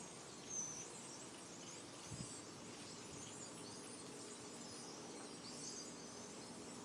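Small birds chirping and twittering faintly, many short high calls overlapping, with one louder chirp about half a second in. A brief soft low thump about two seconds in.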